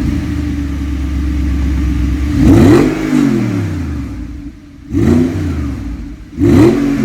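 Audi R8's 4.2-litre V8 idling just after starting, then revved three times with quick throttle blips: each rev rises sharply and falls back to idle, about two and a half seconds in, about five seconds in, and once more near the end.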